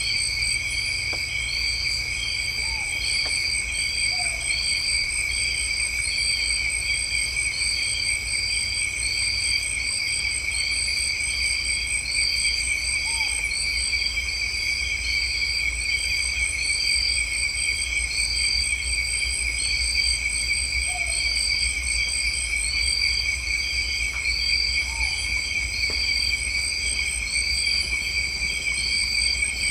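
A dense chorus of insects, with a steady high-pitched trilling and a pulse that repeats about once a second. A few faint short bird chirps come through now and then, over a low steady hum.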